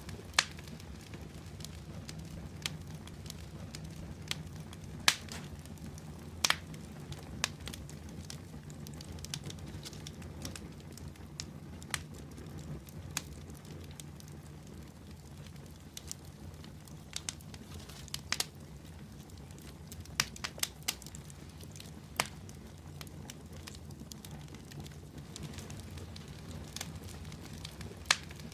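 Wood fire burning in a fireplace, with irregular sharp crackles and pops about once a second over a steady low rumble of the flames.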